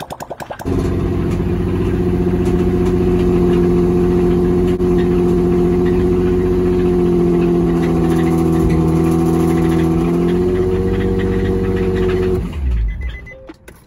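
Nissan 350Z 3.5-litre V6 cranking on the starter, catching under a second in, and running steadily for about eleven seconds before being switched off near the end. The owner identifies the sound it makes as rod knock: a worn connecting-rod bearing.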